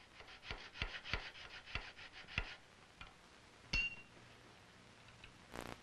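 Hand tools working a wooden rifle stock: a quick run of light taps, about three a second, then a single ringing metallic clink, and a brief scrape near the end.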